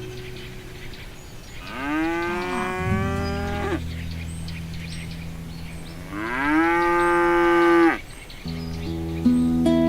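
Cows mooing: two long moos, each rising in pitch as it starts, a few seconds apart.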